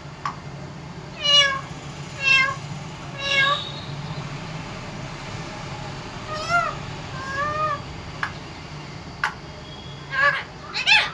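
Pet parrot making meow-like calls, each a short pitched call that rises and falls: three about a second apart, two more a little later, and a short run of calls near the end.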